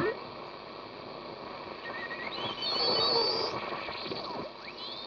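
Grundig Yacht Boy shortwave radio hissing with static. Whistles glide up and down in pitch and short chirping tones come through, the garbled sound of single-sideband signals received without a BFO.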